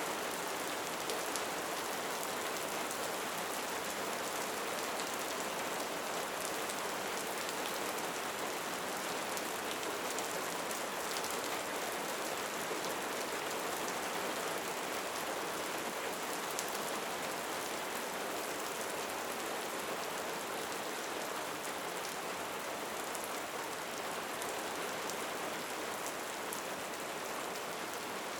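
Steady rain falling: an even hiss, with faint scattered ticks of single drops.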